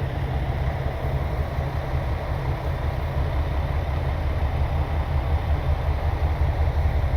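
Train running, a steady low rumble with a noisy wash above it.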